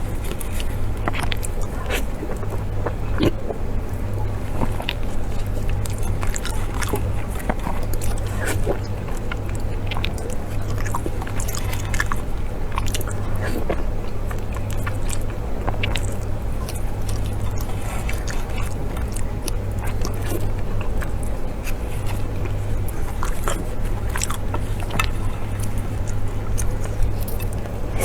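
Close-miked eating: irregular biting and chewing noises, many short wet clicks and crackles, over a steady low hum.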